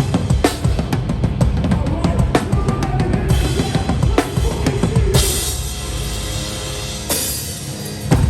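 Live hardcore band playing, heard close up from behind the drum kit: fast kick-drum and snare hits with the band underneath, then crash cymbals washing out about five seconds in and again near seven seconds.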